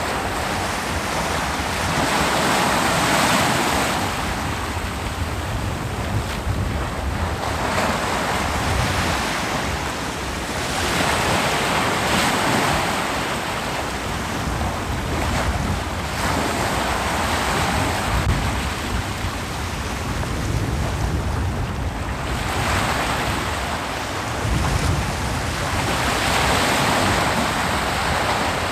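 Ocean surf breaking on a beach: a continuous wash of waves that swells and fades every few seconds.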